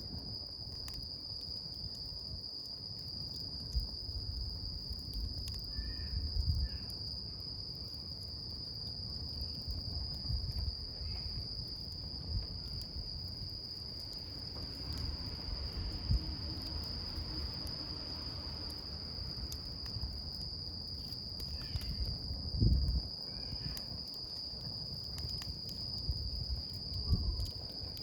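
Wood campfire burning with a low rumble and scattered crackles, over an insect's steady high-pitched song. A couple of louder knocks come from the fire about three-quarters of the way through.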